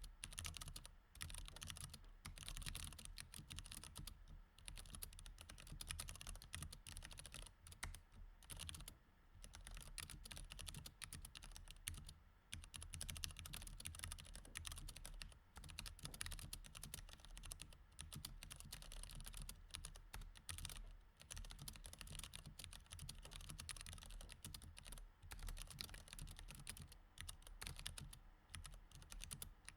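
Mechanical keyboard with Cherry MX Red switches being typed on steadily, a fast run of key clicks and key-bottoming clacks broken by a few brief pauses.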